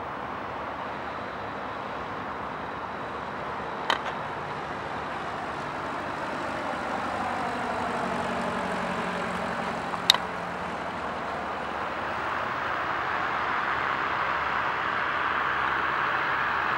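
Small aircraft engine noise growing steadily louder, its pitch sweeping down around the middle, with two sharp clicks about four and ten seconds in.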